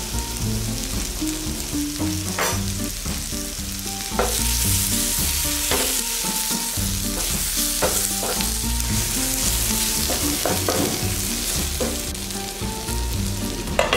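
Onion-tomato masala sizzling in a nonstick frying pan as a spatula stirs it, with scrapes and taps of the spatula against the pan every second or two. The sizzle grows louder about four seconds in.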